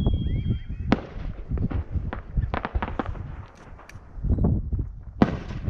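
Aerial firework shells bursting in a rapid, overlapping series of bangs and crackles over a low rumble of booms. A whistle falling in pitch ends in a sharp crack about a second in, and another loud crack comes near the end.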